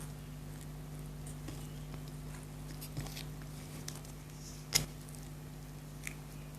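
Quiet eating sounds from chocolate being chewed: a few soft, scattered mouth clicks over a steady low hum, with one sharp click a little past the middle.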